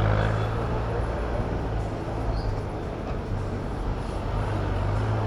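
City road traffic: a steady low engine hum over a constant rush of noise.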